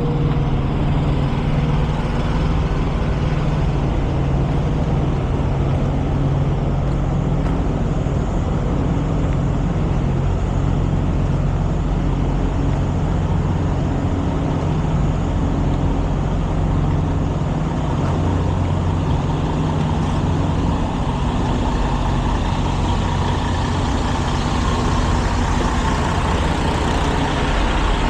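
Semi-truck diesel engine running with a steady low drone.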